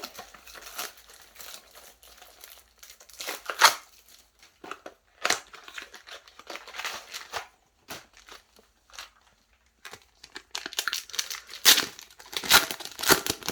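Foil wrappers of Yu-Gi-Oh Rush Duel booster packs crinkling and being torn open by hand, in irregular rustles with several louder crackles.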